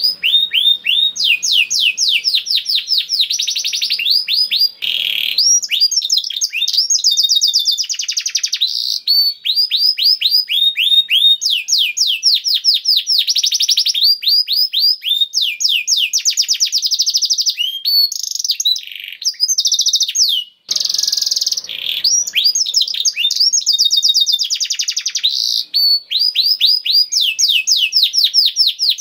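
Domestic canary singing continuously: fast trills of repeated downward-sweeping notes, several to ten or more a second, switching from one rolling phrase to the next with barely a pause.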